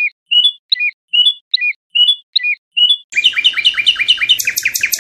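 A songbird singing: a clear two-note phrase repeated about seven times, then a loud, fast trill about three seconds in.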